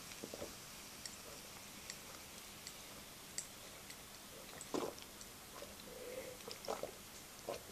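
Faint swallowing gulps of a man drinking a large glass of beer in one long draught, a few soft irregular gulps with small clicks between.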